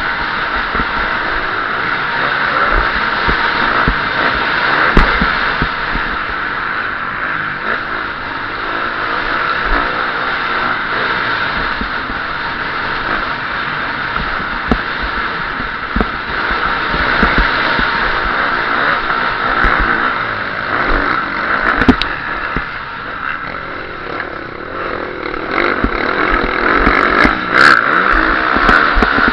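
KTM SX-F 350 single-cylinder four-stroke motocross engine revving up and down under race throttle, heard from a camera mounted on the bike. Its loudness rises and falls with the throttle, and a few sharp knocks come through: one about five seconds in, one about three-quarters of the way through, and a cluster near the end.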